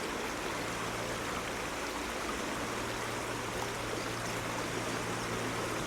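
Shallow stream water running over stones in a steady rush, with a faint steady low hum underneath.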